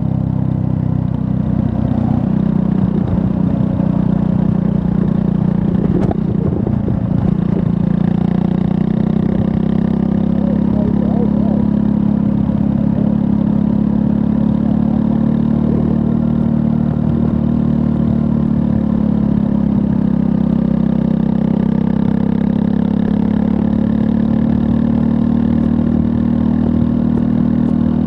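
Triumph Scrambler 400 X's 398 cc liquid-cooled single-cylinder engine running under way at a fairly steady engine speed, its note rising slightly over the last few seconds. A brief knock comes about six seconds in.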